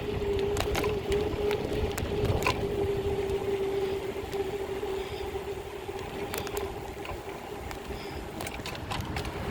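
Wind buffeting and road rumble from a BMX bike cruising along, picked up by a phone's built-in microphone, with scattered sharp clicks and rattles and a steady hum that fades out about halfway through.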